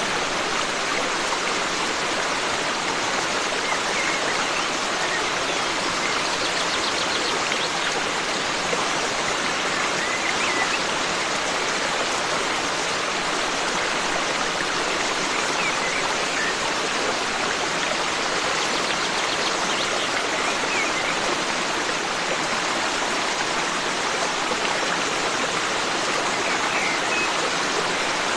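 Forest stream of running water, a steady rushing with no change in level. Faint, brief bird chirps come through it now and then.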